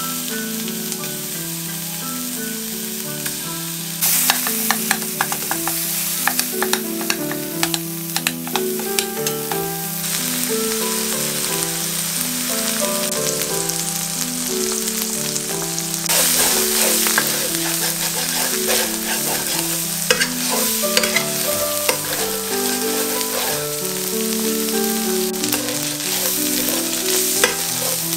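Chorizo sizzling and frying in a stainless steel skillet. From about four seconds in, a spoon scrapes and clicks against the pan as the meat is stirred and broken up, and the sizzle grows louder. Soft piano music plays underneath.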